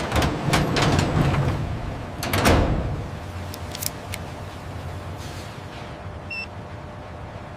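Factory machinery: a few clanks and a loud sliding whoosh in the first few seconds, then a steady low mechanical hum.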